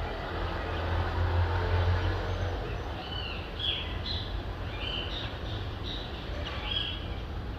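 A vehicle passes with a low rumble over the first half, against steady distant city noise. From about three seconds in, a bird gives a series of short, high chirps.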